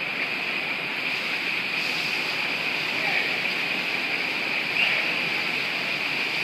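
Steady rushing ambient noise like falling water, with a murmur of voices, and a single brief bird chirp about five seconds in.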